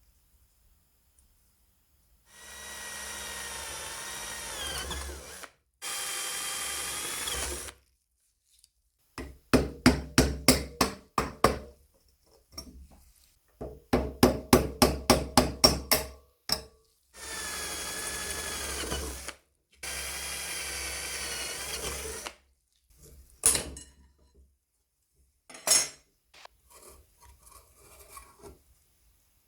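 A small electric power tool running in bursts of a few seconds, its whine dipping in pitch as it takes load. Between the runs come stretches of rapid loud clattering pulses, about four a second, and a few knocks near the end.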